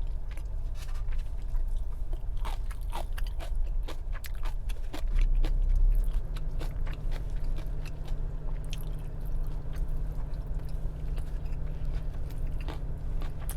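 Close-up chewing and biting of crunchy food, with many small sharp crackles, over a steady low hum.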